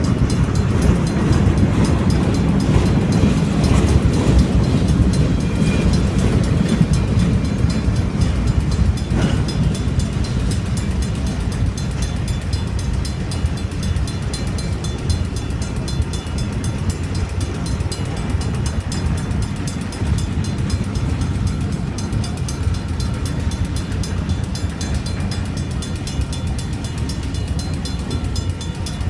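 Union Pacific freight train's boxcars rolling past at a grade crossing, steel wheels rumbling and clattering on the rails, louder for the first several seconds and then easing a little. Behind it the crossing's Safetran mechanical bell keeps ringing while the gates are down.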